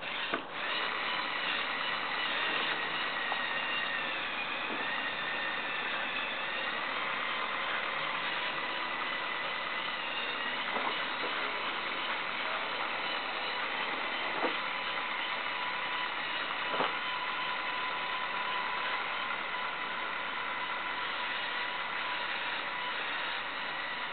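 Small electric drive motors and plastic gears of a Lego trial truck whining steadily as it crawls, the pitch wavering slightly under changing load, with a few faint clicks along the way.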